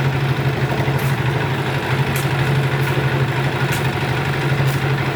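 Isuzu Elf dump truck's diesel engine idling steadily, a low even hum with faint light ticks about once a second.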